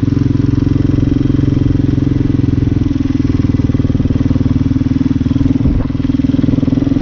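Hyosung Hawk 250 motorcycle engine running steadily under way, a fast even pulsing note, with a brief dip in loudness near the end.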